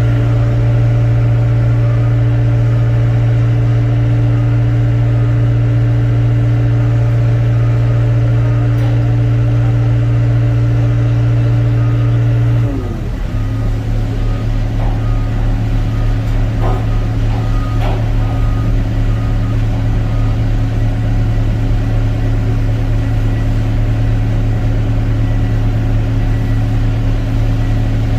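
Excavator's diesel engine running steadily under load. About halfway through, its pitch dips and settles a little lower. A few faint knocks follow.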